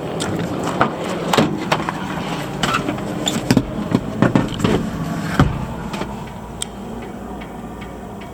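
A Suzuki Carry mini truck's small three-cylinder engine idling steadily, with a run of sharp clicks and knocks over the first two-thirds. It then settles to a quieter even hum.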